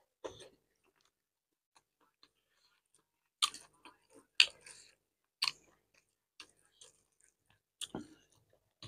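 Close-up chewing of a mouthful of rice and fish curry eaten by hand: a few short, sharp mouth smacks spaced irregularly, the loudest about three and a half and four and a half seconds in.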